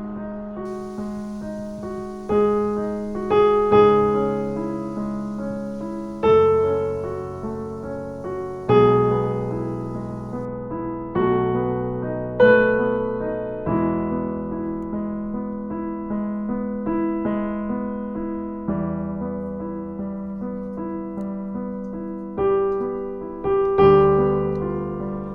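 Slow piano music: gentle chords and melody notes struck and left to ring over sustained bass notes.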